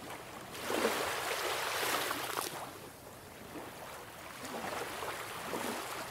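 Sea water sloshing and splashing against a boat or cave rock, in two surges: one about a second in and a second near the end.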